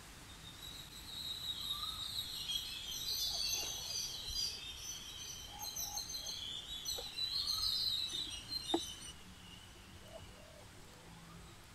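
Birds chirping and chattering, many short high calls overlapping, for about eight seconds before they fade out. A single sharp tap sounds near the end of the chatter.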